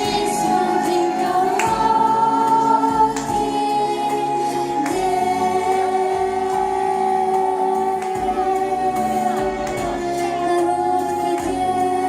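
A song with held sung notes over instrumental backing, the melody moving every second or two.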